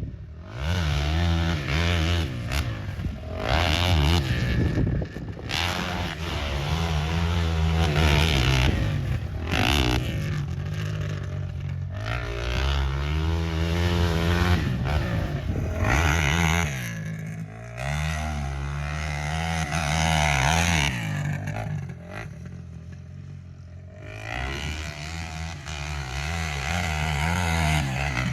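KTM 450 SX quad's single-cylinder four-stroke engine being ridden hard, revving up and falling back again and again as the throttle is worked. It drops quieter for a couple of seconds about three-quarters of the way through.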